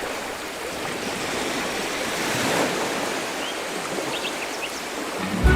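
Ocean surf washing onto a beach, a steady hiss of breaking waves, with a few faint short high chirps about two-thirds of the way in.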